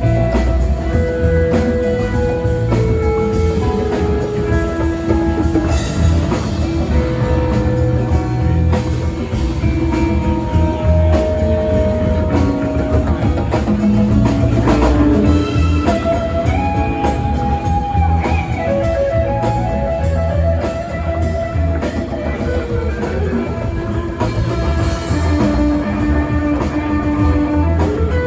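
Live rock band playing an instrumental passage: lead guitar playing sustained melodic lines over drum kit and bass.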